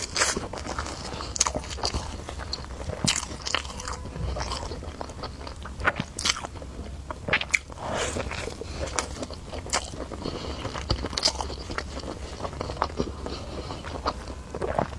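Close-up eating sounds: a person biting and chewing food, with irregular crunches and wet mouth clicks.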